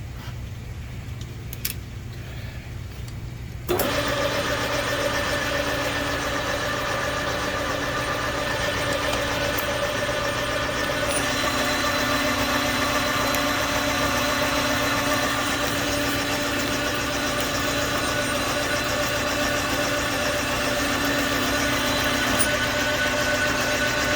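Machine-shop lathe boring out the centre hole of a belt pulley. A low steady hum, then about four seconds in the machine comes up loud, with several steady whining tones over the cutting noise, running on evenly.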